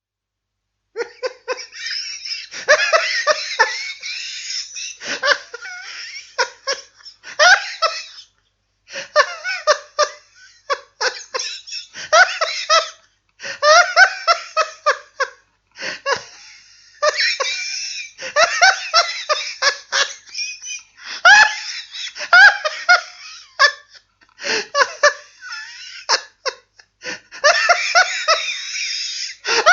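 Recorded laughter in repeated runs of short ha-ha pulses, with brief pauses between the runs, starting about a second in.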